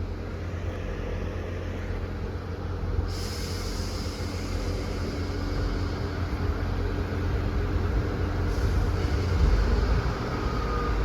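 Diesel multiple unit at a station platform: the engines and underframe give a steady low rumble that grows gradually louder. A high hiss comes in about three seconds in and stops about five seconds later.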